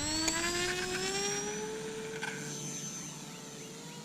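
Small electric RC plane's brushless motor and propeller whining under power. The pitch rises over the first two seconds or so, then holds steady while the sound slowly fades.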